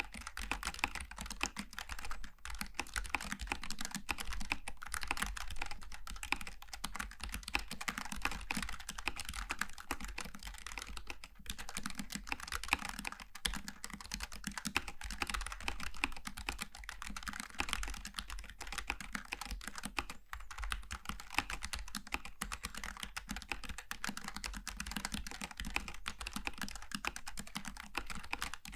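Continuous fast typing on a Logitech G915 TKL low-profile mechanical keyboard with tactile switches: a dense run of key clicks and clacks, with a few brief pauses.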